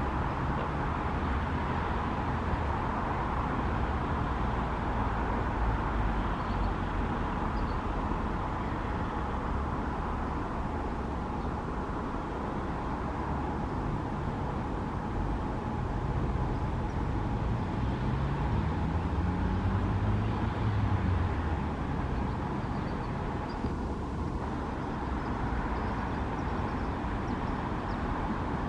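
Steady rumble of road traffic. About 18 seconds in, a low tone rises in pitch for a few seconds, like a vehicle accelerating.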